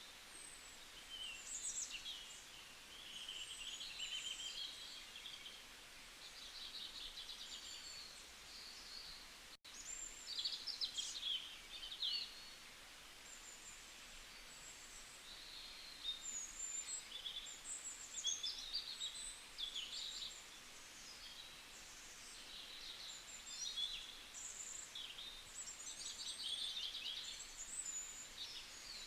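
Several small birds chirping and twittering, short quick calls and trills overlapping one another, with a momentary break in the sound about ten seconds in.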